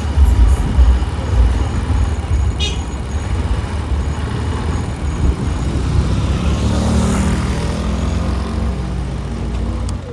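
Motorbike riding through city traffic: a heavy low rumble of engine and road noise throughout. Another vehicle's engine rises and falls as it passes, about two thirds of the way in.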